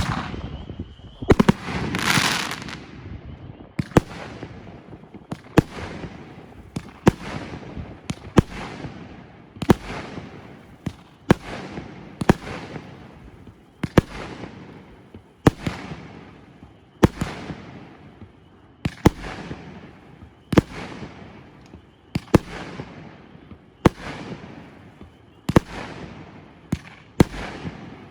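Consumer firework, the OMG Fireworks 'The Conjuring' repeater, firing a long series of sharp shots about once a second, each followed by a crackling tail as it bursts. A loud hissing burst comes about two seconds in.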